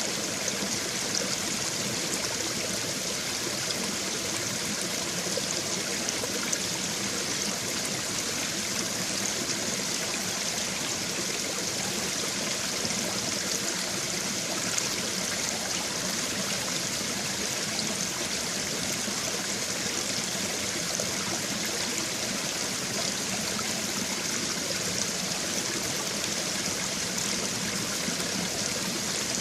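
Brook water babbling and trickling over stones in a steady, even rush.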